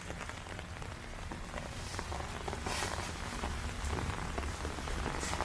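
Steady rain falling, with a few brief hissing swells.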